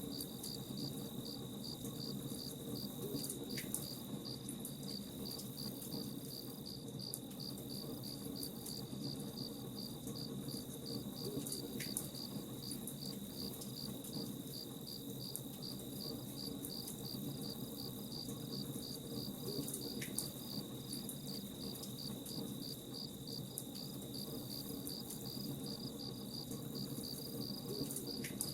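Crickets chirping in a steady, even pulse, over the low crackle of a campfire with a few sharp pops.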